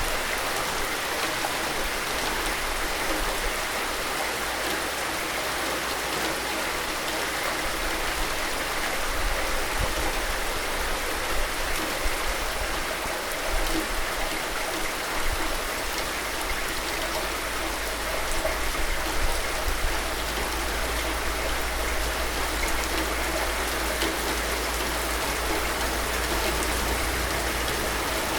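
Steady rain falling, an even hiss with scattered faint drop ticks and a low rumble beneath.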